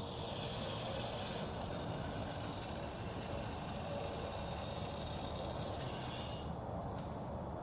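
A steady high hiss that starts abruptly and cuts off about six and a half seconds in, over a steady low background hum.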